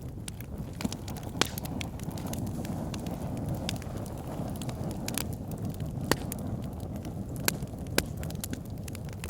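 Backyard fire pit burning with a steady low rush of flames and scattered sharp crackles and pops, the loudest about a second and a half in and three more in the second half.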